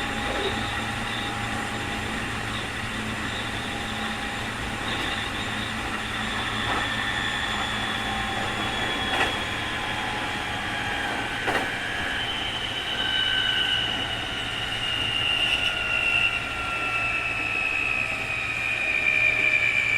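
Keikyu 2000 series train heard from on board: the traction drive's high 'jet sound' whine, unusually strong for this car and the mark of an abnormal-noise car, over a steady running rumble. The whine falls steadily in pitch through the second half as the train slows, with a few sharp clicks of wheels over rail joints.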